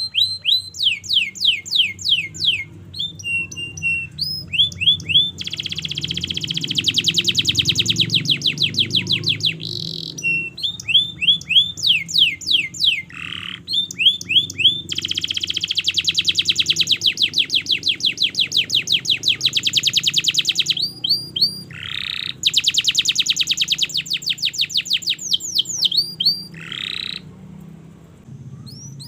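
Domestic canary singing a long, unbroken song. Runs of quick, high downward-sweeping notes alternate with long, very rapid rolling trills held for several seconds at a time.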